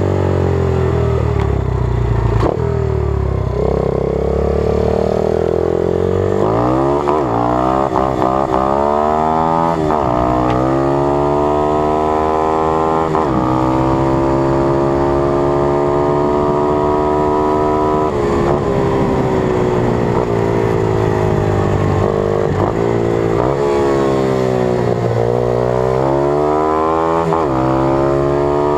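120cc pitbike's single-cylinder four-stroke engine being ridden hard. Its pitch climbs and drops back with each gear change, holds for stretches at speed, and falls off and rises again near the end.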